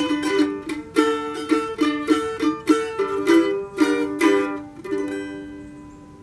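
A plucked string instrument strumming a run of chords to close the song, the last chord ringing and fading out about five seconds in.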